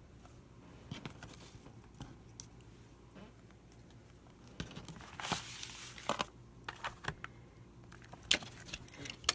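Paper being handled at a craft table: light rustling and scattered ticks, a louder rustle and scrape about five seconds in, then a few sharp clicks, the loudest near the end.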